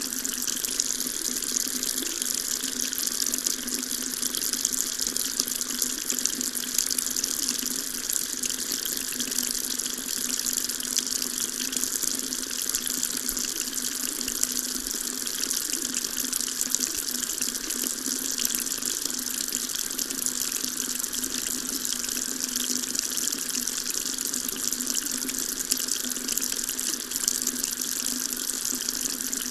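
Water tap running steadily, a constant stream splashing into a sink.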